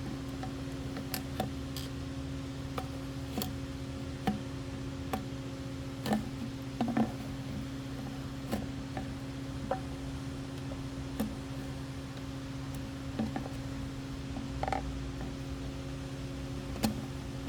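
Irregular small clicks and taps from handling the fuel line and fuel filter as they are fished out of an Echo GT225 string trimmer's fuel tank, over a steady low hum.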